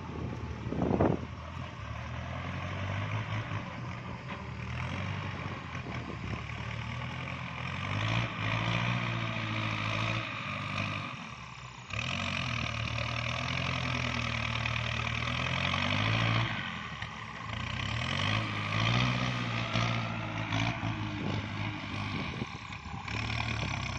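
Kubota diesel tractor engine working hard while rotary-tilling in deep wet mud, its pitch rising and falling repeatedly as the load comes and goes.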